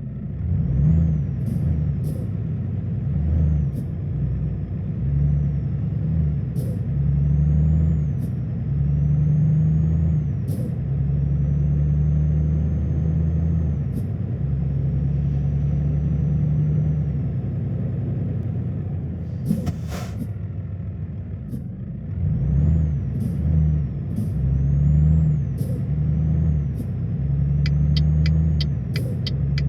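Small Volvo truck's engine running, its speed rising and falling, with a thin high whistle that follows the engine. A short burst of air hiss comes about two-thirds of the way through, and a quick run of even ticks near the end.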